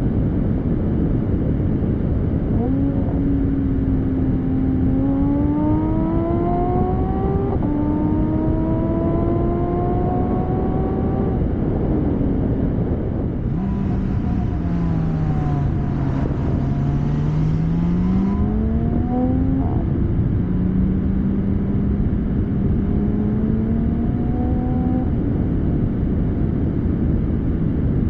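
Porsche 718 Spyder's 4.0-litre flat-six running through a Kline valved exhaust with OPF delete pipes, pulling hard with its pitch climbing through two gears and dropping at the upshift between them. About halfway through the pitch sinks and then rises again, followed by another long climb, over steady road and wind noise.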